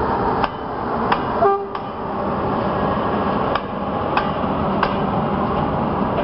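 Electric-hauled passenger train rolling past close by: a steady rumble of wheels on rails, with sharp clicks as the wheels cross rail joints. A short horn toot about a second and a half in.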